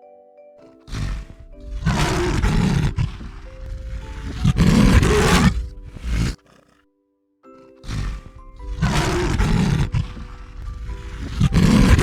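A series of loud, rough animal calls, each about a second long, over gentle background music, with a brief silent break a little past halfway.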